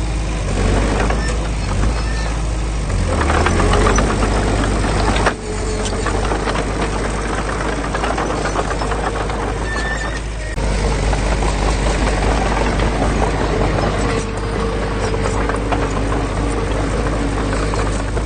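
Diesel engine of heavy earthmoving machinery running steadily with a deep low hum, the sound breaking off and resuming abruptly about five and ten and a half seconds in.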